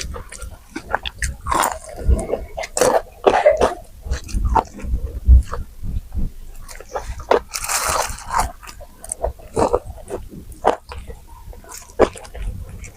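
A person eating close to the microphone: irregular wet chewing and mouth clicks, with a longer, hissier stretch about eight seconds in.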